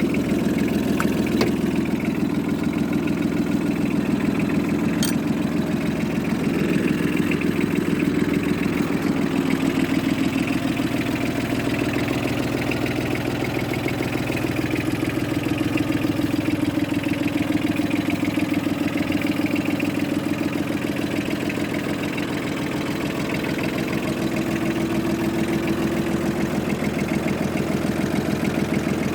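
Yanmar AF15 compact tractor's diesel engine running steadily at low revs, a continuous chugging hum that eases slightly past the middle.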